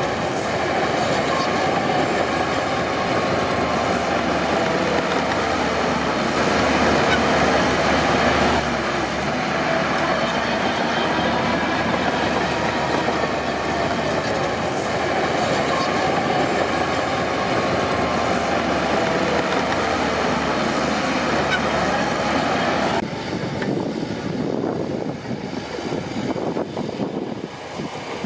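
Crawler bulldozer at work: its diesel engine running steadily under load with a metallic rumble. It swells briefly a few seconds in and drops to a quieter, rougher sound near the end.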